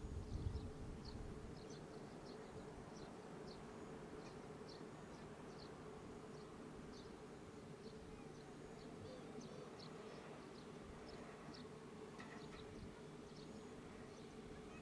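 Low jet-engine rumble of a landed Airbus A320 fading away over the first second or two, leaving a steady faint hum. Short high chirps repeat about once or twice a second throughout.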